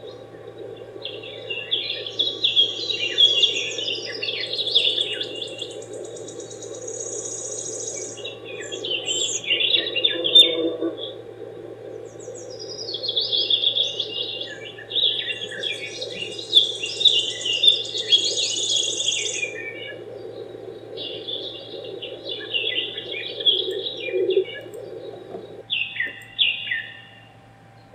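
Songbirds chirping and twittering in phrases a few seconds long with short gaps, over a steady low hum.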